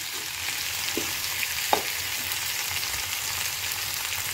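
Sliced potato, onion, capsicum and green chillies frying in hot oil in a soapstone kal chatti: a steady sizzle, with two brief ticks in the first two seconds.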